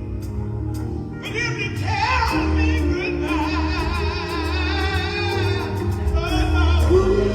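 Live gospel music: a singer holding long, wavering notes with heavy vibrato over a band with a steady bass line and light cymbal taps.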